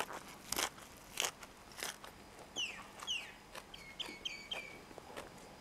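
Mouth-full chewing of fresh greens and boiled pork intestine, three crunches about half a second apart. Then a bird calling: two falling high chirps, followed by four short quick notes.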